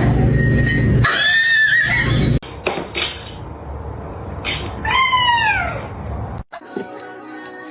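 Domestic cat meowing: a short wavering meow about a second in, then a longer meow falling in pitch about five seconds in.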